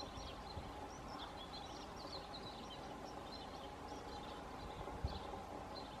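Faint, high, short chirps and twitters of songbirds, scattered throughout over a steady background hum. A single short low thump about five seconds in.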